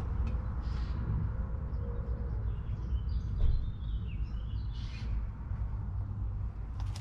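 Birds chirping in the middle stretch over a steady low rumble.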